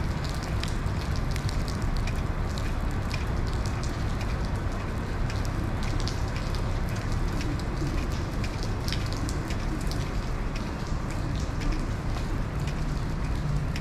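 Steady rain, with many separate drops ticking close by over a low, even rumble.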